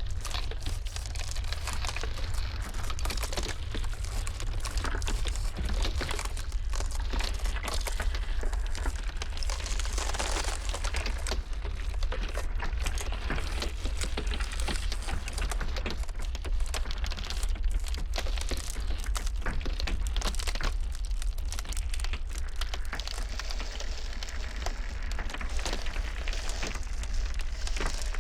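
Ice crackling and snapping continuously, many small cracks in quick irregular succession over a steady low rumble of blizzard wind.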